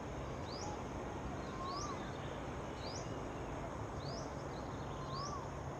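A bird calling repeatedly, a short high rising chirp about once every second, with an occasional lower up-and-down whistled note, over a steady outdoor background hum.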